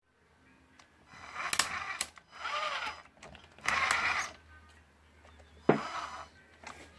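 Axial Blazer RC truck's electric drivetrain run in four short bursts, a motor whine with sharp ticks and clicks from the differential.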